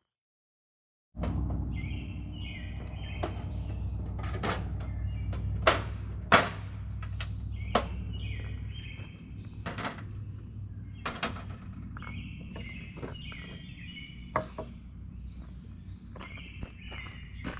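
Outdoor evening ambience that cuts in after about a second of silence: a steady high insect drone, birds chirping in repeated short phrases, and a low rumble underneath. Scattered sharp clicks and a couple of louder knocks about six seconds in.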